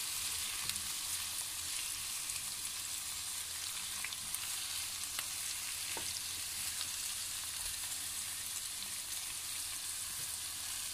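Stuffed tinda sizzling steadily in mustard oil in a kadhai over a low flame, with a few light taps of a metal spatula as the gourds are turned over.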